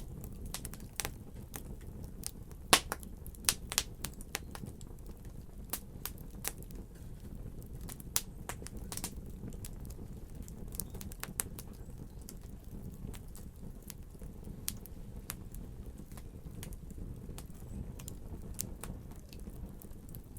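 Wood fire crackling, with irregular sharp pops and snaps over a steady low rumble of burning. The loudest snaps come in the first few seconds.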